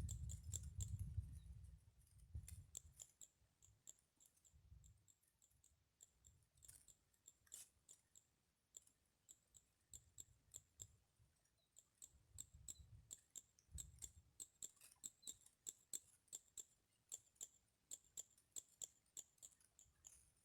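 Faint, irregular clicking, a few small clicks a second, over near silence.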